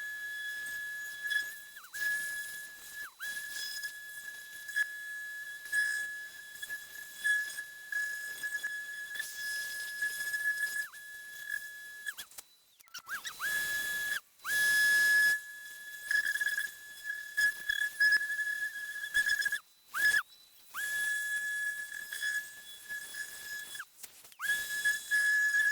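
A 5-inch Mirka random orbital sander with a dust vacuum attached, sanding bondo and fiberglass filler. It gives a steady high whine over a hiss of sanding, and stops and restarts briefly about halfway through and twice near the end.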